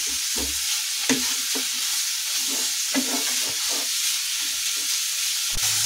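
Grated bottle gourd sizzling as it sautés in hot ghee in a kadhai, with a wooden spatula stirring and scraping against the pan every second or so.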